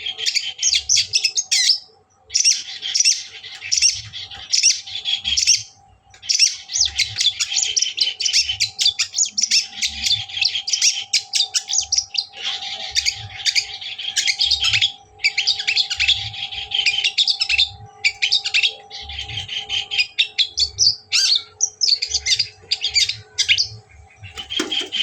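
Long-tailed shrike (cendet) song: rapid, harsh chattering in dense bursts, breaking off briefly about 2 and 6 seconds in, over a faint steady hum.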